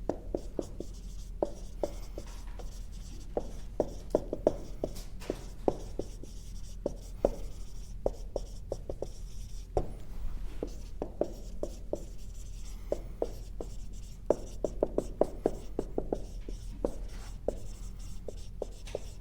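Marker writing on a board: a steady run of short squeaks and taps as the strokes are drawn.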